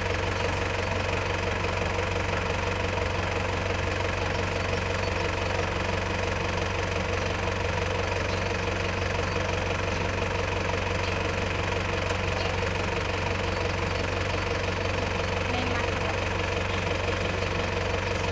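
Mitsubishi Shogun's engine idling steadily at a standstill, close by.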